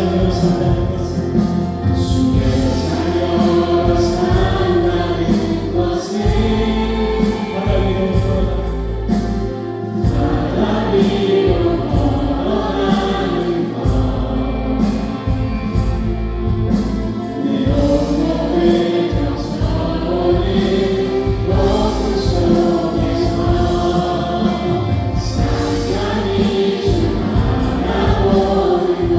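Live worship band playing a contemporary Christian praise song, with keyboards, bass and drums under a group of voices singing together.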